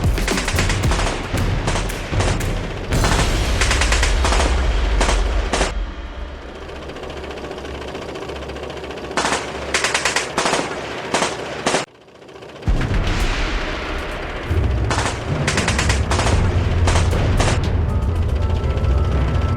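Machine-gun fire in rapid bursts over a low rumble and background music; the sound drops out briefly about twelve seconds in.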